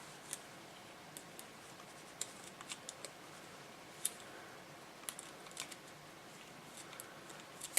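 Light, irregular clicks and ticks from small metal and plastic radio parts being handled as metal tabs are bent over onto a plastic part to lock it in place.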